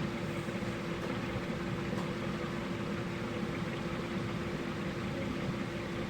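Steady mechanical hum with a constant tone, like a fan or machine running in a workshop.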